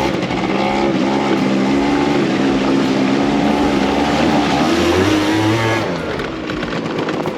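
Small off-road scooter's engine running hard under load as it pushes through shallow water. The pitch holds fairly steady with a slight waver, then eases off about six seconds in.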